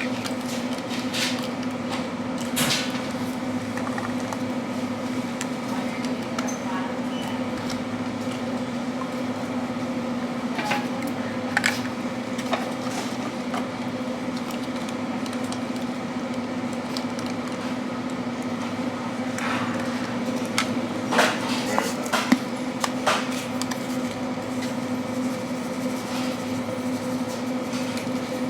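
Steady low electrical hum of indoor equipment, with scattered light clicks and knocks, clustered around 11 to 12 seconds and again around 20 to 23 seconds.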